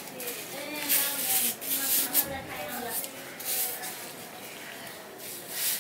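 Close-miked mouth sounds of eating bakorkhani soaked in sweetened milk from a spoon: wet chewing and sucking in several short noisy bursts, with a low hummed voice in the first few seconds.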